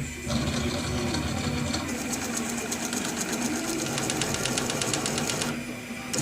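Mini CNC milling machine running while cutting an M3 thread: a steady machine hum from the spindle and stepper motors. A fast, regular high ticking joins about two seconds in, and the sound dips briefly near the end.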